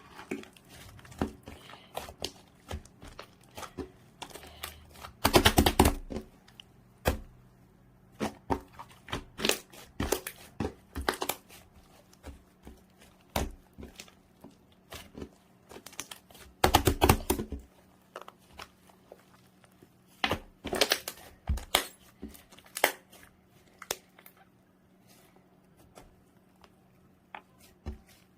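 Two-tone slime being squeezed and poked by hand, giving scattered sticky clicks and pops. There are two bursts of rapid crackling, about five seconds in and about seventeen seconds in.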